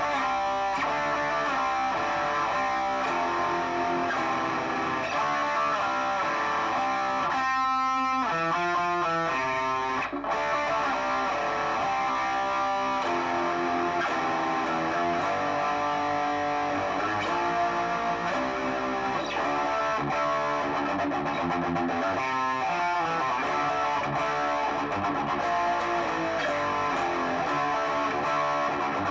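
Electric guitar played through a Boss Katana amplifier, a continuous passage of changing notes and chords with effects. Around eight seconds in, a note pulses rapidly for about a second and a half.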